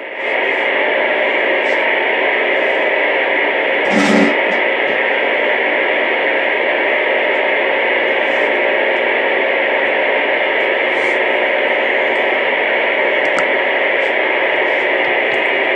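CB radio receiver putting out a steady, loud hiss of static over an open channel, with a faint steady tone in it and a short blip about four seconds in.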